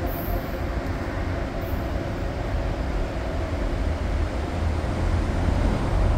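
Low, steady rumble of a train at a distance along the station tracks.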